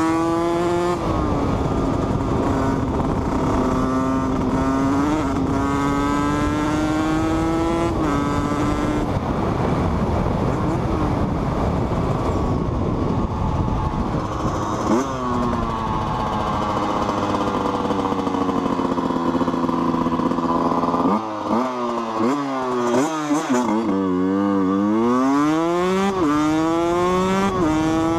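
HM CRM 125 two-stroke dirt bike engine under way, heard from the rider with wind rush on the microphone. Its pitch climbs and drops back at each upshift, is half-buried by wind at speed, then falls as the bike slows. Later comes a run of quick throttle blips, the pitch jumping up and down, before it pulls up again near the end.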